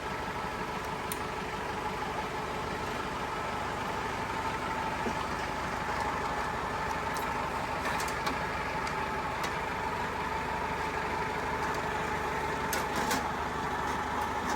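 A steady motor drone with a constant hum, like an idling engine or running machine, with a few light clicks scattered through it.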